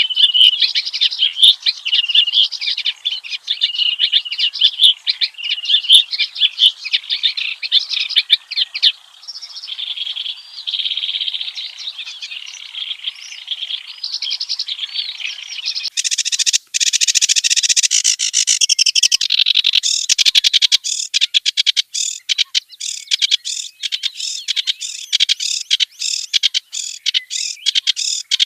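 Kerak basi (a reed warbler) singing its harsh, chattering song of rapid repeated notes. About halfway through, it turns into a denser, harsher rattling run.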